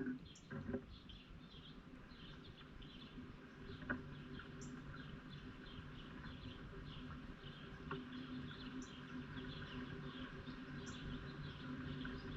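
Birds chirping: many short high chirps repeating a few times a second, over a steady low hum. A few soft knocks come near the start and about four seconds in.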